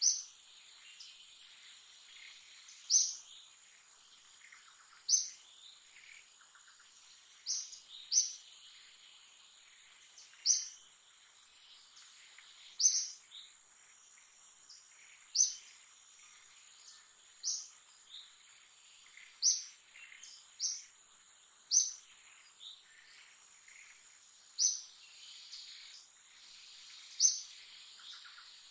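A bird repeating a short, high chirp about every two seconds, over a steady high-pitched insect drone.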